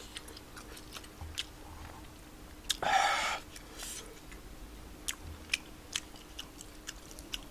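Close-up chewing of spicy tteokbokki: soft wet mouth clicks and smacks scattered throughout, with one louder breathy noise about three seconds in.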